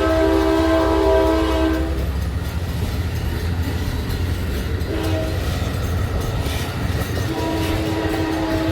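Train horn sounding a chord over the low rumble of a moving train: a long blast ends about two seconds in, a short blast follows about five seconds in, and another long blast begins near the end, the long-short-long close of a grade-crossing signal.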